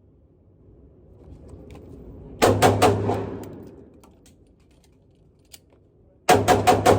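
Glock 26 9 mm subcompact pistol fired in two rapid strings: four quick shots, then a few seconds later another string of four or five, each shot followed by a short echoing tail.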